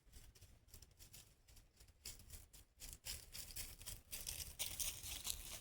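Faint, irregular rustling and crackling, with scattered small clicks that grow a little louder over the last couple of seconds.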